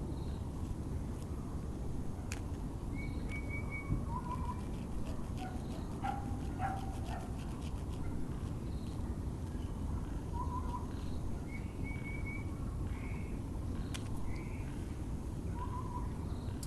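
Birds calling over a steady low hum of distant background noise: a short note repeated about every six seconds and brief trilled chirps, with a dog barking in the distance.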